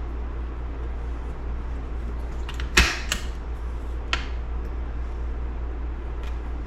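A few short, sharp metallic clicks and knocks from engine parts being handled and fitted during reassembly, the loudest about three seconds in, over a steady low hum.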